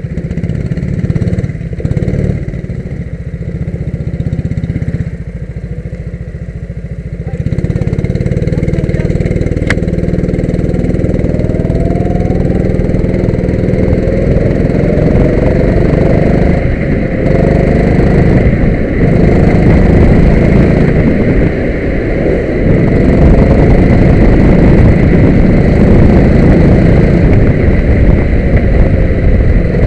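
Go-kart engines running, quieter at first, then revving up with the pitch rising from about eight seconds in and staying loud.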